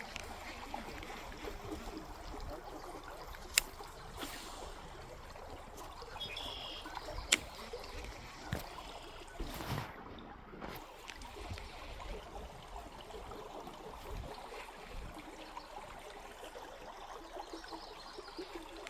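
Creek water running steadily. Two sharp clicks cut through it, about three and a half seconds in and again about seven seconds in.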